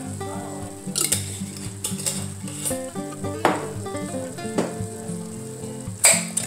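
Vegetables and tomato sauce sizzling in a hot stainless steel pot, with several sharp crackles, the loudest near the end. Background music with steady notes plays underneath.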